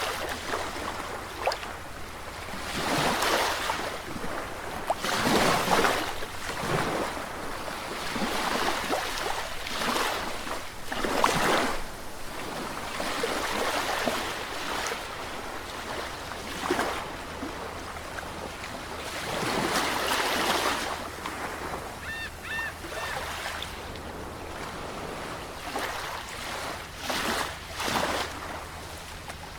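Sea waves breaking and washing in, one surge after another every second or few. A short, repeated bird call sounds about three quarters of the way through.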